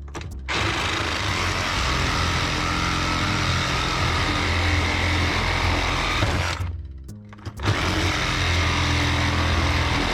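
Cordless reciprocating saw cutting through metal to remove a motor from an appliance, in two runs with a pause of about a second after six seconds, ending once the cut is through.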